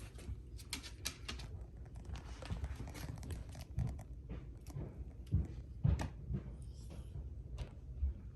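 Scattered clicks, taps and rustling, with two louder low thumps about five and six seconds in.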